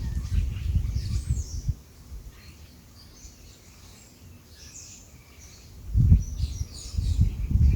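Songbirds chirping and calling in short, high, scattered notes, some gliding in pitch. Loud, low rumbling noise comes in gusts over the first second and a half and again near the end.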